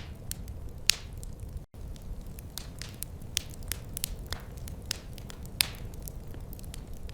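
Wood fire in a fireplace crackling, with irregular sharp pops and snaps over a steady low rumble. The sound cuts out for an instant about a second and a half in.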